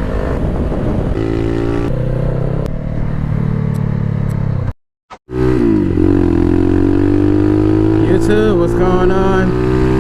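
Bashan Motomax 250 supermoto's engine running under way, its pitch shifting in the first half. The sound drops out for about half a second halfway through, then the engine note climbs steadily as the bike accelerates.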